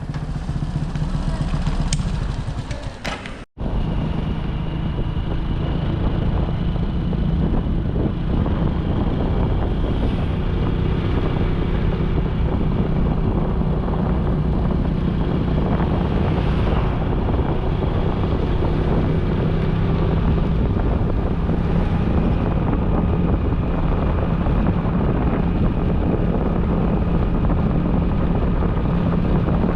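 Motorcycle engine running steadily on the move, with road and wind noise. The sound cuts out briefly about three and a half seconds in.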